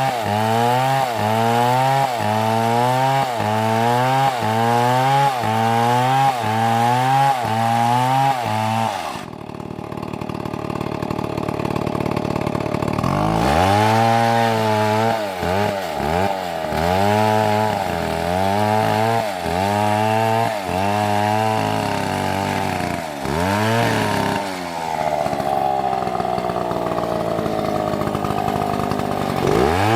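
Chainsaw cutting through a tree trunk, its engine pitch rising and falling in a quick repeating cycle about twice a second as the saw rocks through the cut. In the middle comes a few seconds of steadier, noisier running before the cycle resumes.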